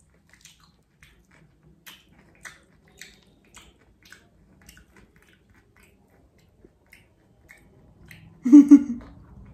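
Close-up chewing and biting of a brown-bread sandwich: short crisp crunches about twice a second, thinning out after about five seconds. Near the end comes a brief loud voiced sound from the eater.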